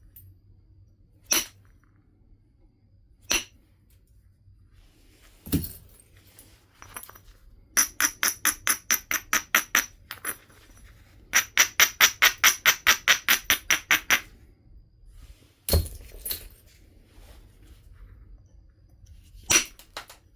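Flintknapping: flint being struck with single sharp knocks every few seconds. Between them come two runs of quick, even strokes on the stone's edge, about five or six a second, each with a bright clinking ring.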